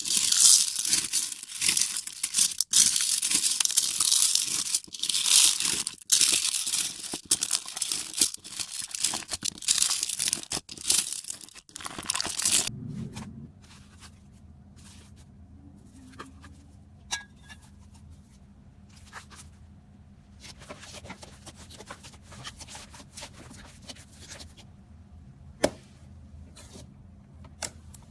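Loud, close-up crackling and crunching for about thirteen seconds, which stops suddenly. Quieter scattered soft clicks follow over a faint low hum, with one sharper click near the end.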